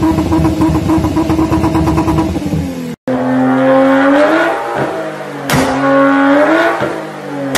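Loud car exhaust held at steady high revs, dropping off just before a sudden cut. Then a different car revving, its engine note rising and falling twice, with a couple of sharp cracks.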